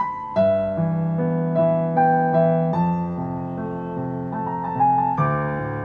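Piano playing a melody over held chords, with a quick turn ornament, a rapid flick of notes around the main note and back, a little over four seconds in. It demonstrates the turn added where the melody leaps a fourth or more, from la up to re.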